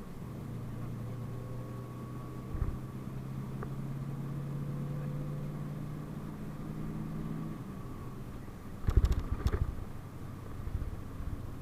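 A PAZ-32054 bus's engine running at a steady hum with a faint whine above it; the engine note drops away about two-thirds of the way in. A second or so later comes a burst of loud knocks and rattles.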